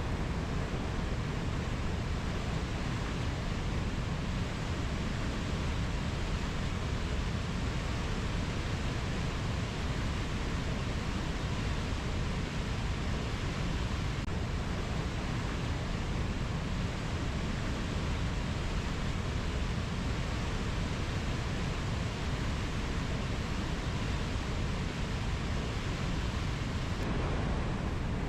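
Steady rushing rainforest ambience, an even unbroken wash of noise heaviest in the low end, like heavy water or wind, with no birdsong or insect calls standing out.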